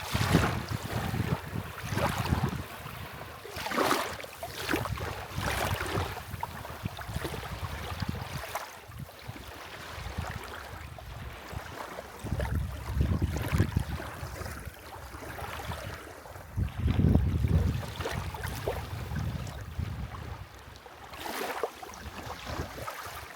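Small waves washing onto a sandy shore in repeated soft surges, with gusts of wind rumbling on the microphone now and then.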